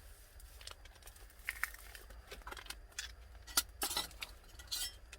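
Scattered light clicks and clinks of utensils and containers being handled while cooking, with a few sharper knocks a little over halfway through and near the end.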